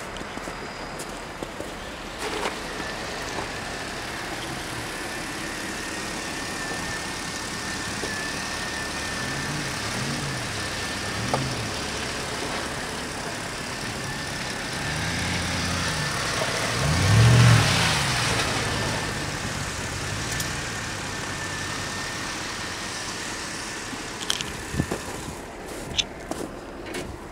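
2011 Camaro SS's 6.2-litre L99 V8 running at idle, with several short throttle revs in the middle, the biggest about two-thirds of the way through. A few sharp clicks near the end.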